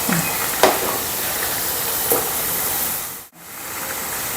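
Snacks deep-frying in hot coconut oil, with a steady sizzling hiss and a couple of light clicks. The sound drops out briefly, about three seconds in, then comes back.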